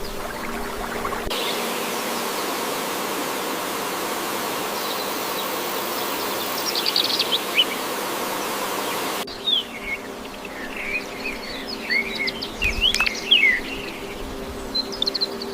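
Wild birds chirping and twittering over a steady insect buzz. The buzzing background cuts off abruptly about nine seconds in, leaving a busier run of quick, gliding bird calls.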